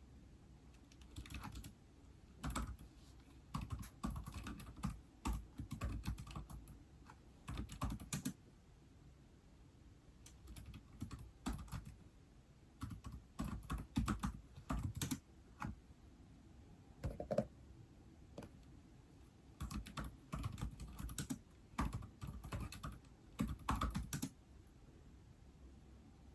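Typing on an iPad keyboard: bursts of quick key clicks, with short pauses between bursts and a longer pause a little past the middle.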